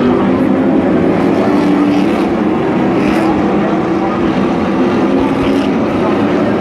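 Racing truck engines running hard on track, a loud, continuous engine sound whose pitch wavers up and down as the trucks accelerate and lift.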